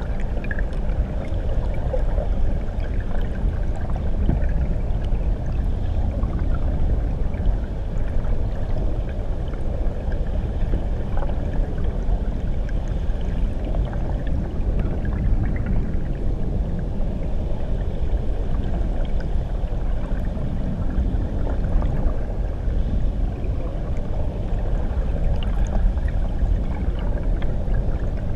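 Steady, muffled rush of water heard underwater beneath a waterfall, heaviest in the low rumble, with faint scattered ticks of bubbles.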